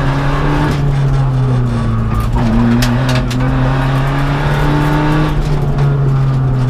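Seat Ibiza TDI rally car's turbodiesel engine running hard, heard from inside the cabin. The engine note holds steady and wavers slightly, with a few short clicks about halfway through.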